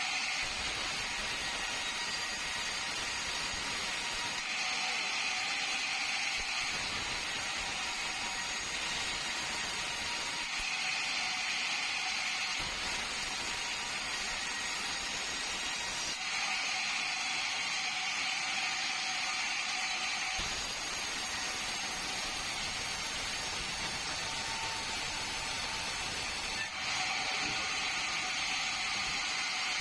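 Sawmill saw running steadily and cutting through a bengkirai hardwood log, its sound shifting every few seconds.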